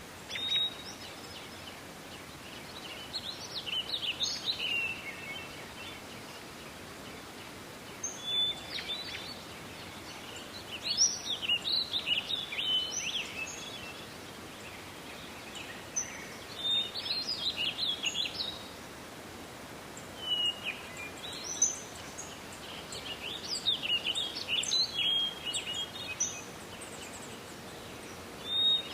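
Songbird singing: short, varied twittering phrases, about seven of them, each a second or two long and repeated every few seconds, over a steady hiss of forest background noise.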